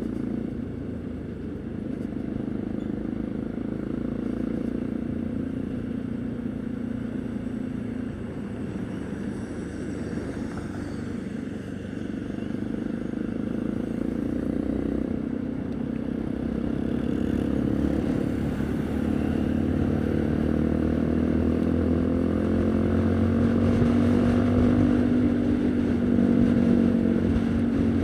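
Haojue NK150 single-cylinder motorcycle engine running on the road with wind and road rumble; the engine note climbs and gets louder through the second half as the bike accelerates.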